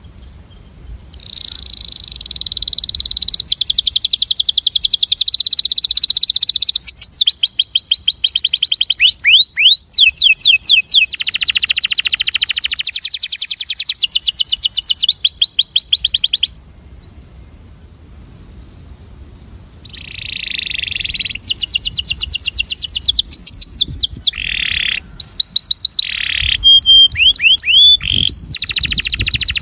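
Male domestic canary singing its breeding song, the song used to attract a female: long rapid trills and sweeping whistled notes in loud phrases, with a pause of a few seconds about halfway through before it starts again.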